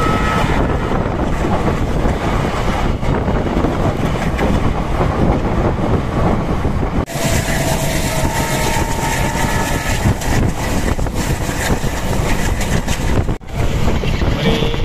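Passenger train running along the track, a steady rumble and rattle of the moving carriage heard from on board. The sound breaks off abruptly about seven seconds in and again near the end, then carries on.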